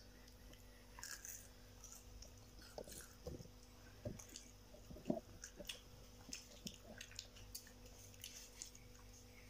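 Faint, irregular crunching and chewing as crispy fried jalebis are bitten and eaten.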